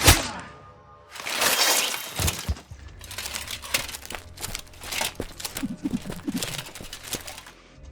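Dubbed sword-fight sound effects: a sharp hit at the start, a short rush of noise, then a rapid string of sharp hits and crunches.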